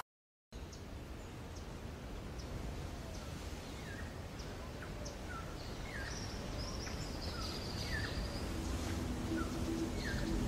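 Small birds chirping with short, falling chirps repeated every half second or so, over a steady low outdoor background noise. The sound begins about half a second in.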